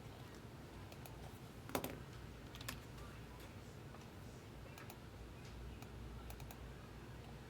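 Faint, scattered clicks of typing on a computer keyboard, with a sharper click a little under two seconds in and another just under three seconds in.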